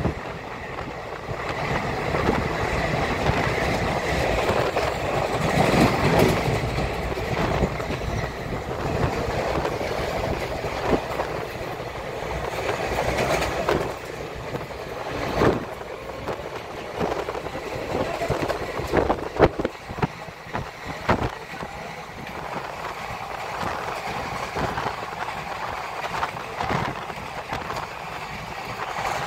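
Running noise of a passenger train at speed, heard through an open barred window: a steady rumble and rush of air with wheels clacking over rail joints and points, in a cluster of sharp clacks about two-thirds of the way through. At the start a freight train of open wagons passes on the next track, and the noise is louder for the first few seconds.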